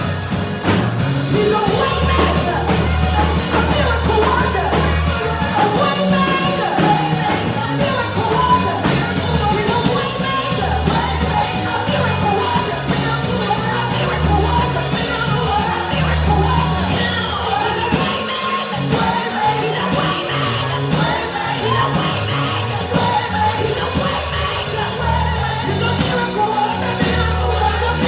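Live gospel praise music: a church band with a bass line and drums, with voices singing.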